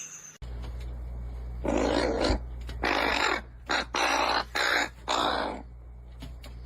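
About five harsh, raspy animal calls in quick succession, each well under a second long, over a steady low electrical hum.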